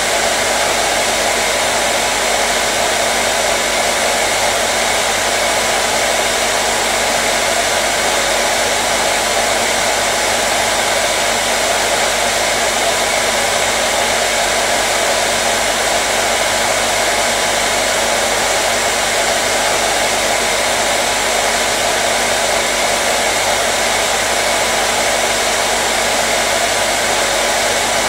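Hand-held hair dryer running steadily: an even rush of blown air with a faint motor hum underneath, unchanging throughout.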